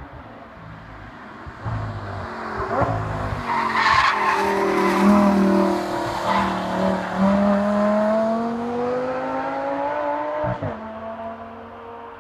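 Audi R8's 5.2-litre V10 through an Akrapovič exhaust, swelling loud as the car comes down into a hairpin, with a few sharp cracks on the approach. It then pulls hard out of the bend, its note rising steadily, drops in pitch with a sudden upshift near the end, and fades away.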